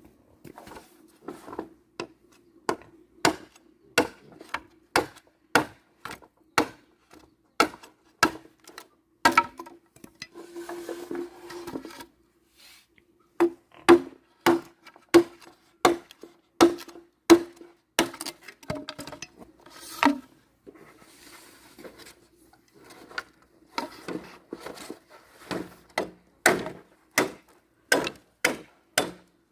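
A tool striking wood in a long series of sharp knocks, about one to two a second, with short breaks partway through.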